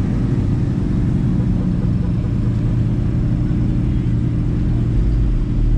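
Car engine running steadily close by, a deep, even rumble with no revving.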